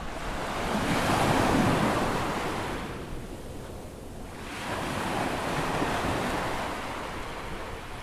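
Ocean waves breaking on a sandy beach at an incoming tide: a larger wave crashes and washes about a second in, then fades, and a second, smaller wave breaks around five seconds in. Wind buffets the microphone.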